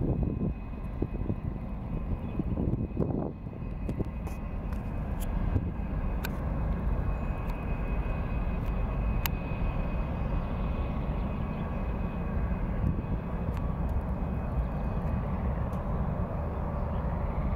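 Airbus A380's four Rolls-Royce Trent 900 turbofans at take-off power: a steady low rumble with a faint steady whine above it.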